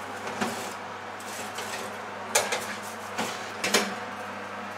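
Metal baking sheet and oven rack clanking and knocking a few times as they are handled at an open oven, over a steady low hum.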